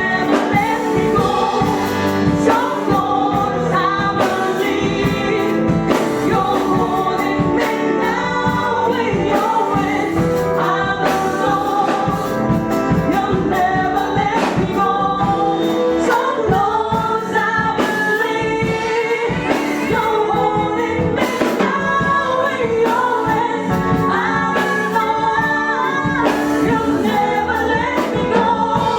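Gospel choir singing with male and female voices over a band with a steady drum beat.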